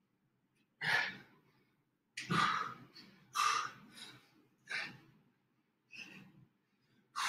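A man breathing hard from exertion: about six loud, forceful exhales, a second or so apart, with quieter gaps between them, as he works through the last seconds of an intense interval exercise.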